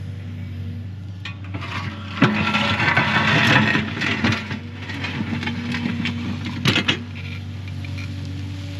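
Excavator's diesel engine running steadily while the bucket digs, with a loud crunching scrape of soil and rock about two seconds in and a couple of sharp knocks near the end.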